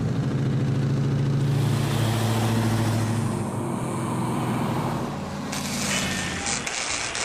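A car engine running with a steady low exhaust note. About five and a half seconds in, a hissing rush comes in over it.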